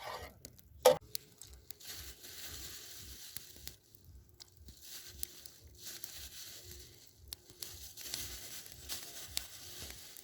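Wood campfire crackling and hissing, with scattered pops and one sharp crack about a second in.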